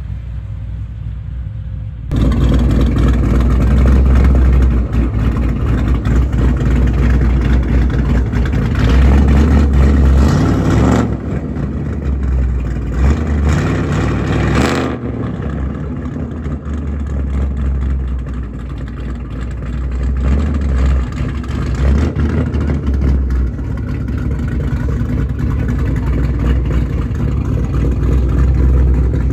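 A car engine running and revving, a heavy low rumble that swells and eases, getting much louder about two seconds in.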